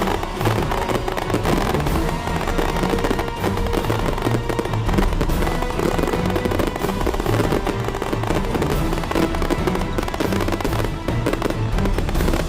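Fireworks and firecrackers crackling densely and without a break, over loud music.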